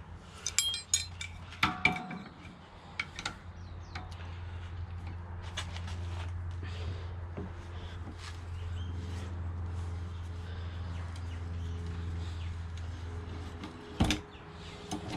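Metal parts and tools clinking and ringing against each other during the first two seconds, then a steady low hum for about ten seconds, and a sharp metal clank near the end.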